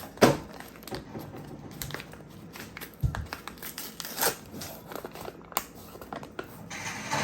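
Irregular clicks, knocks and rustling of kitchen items being handled, the loudest a sharp knock just after the start and a dull thump about three seconds in.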